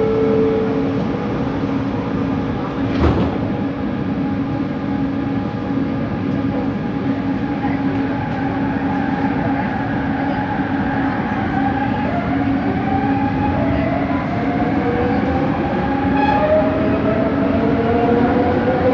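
Bombardier Innovia ART 200 train running, heard from inside the car: the motor whine and running noise are steady at first, then several whining tones rise in pitch through the second half as the train speeds up. A sharp knock comes about three seconds in.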